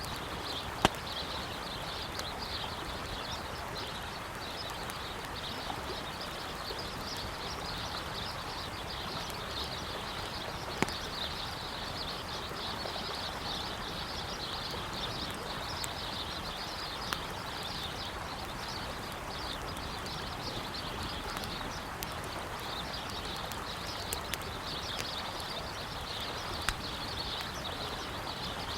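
A flowing river's steady rush with birds chirping continuously, and a campfire crackling, giving a few sharp, widely spaced pops.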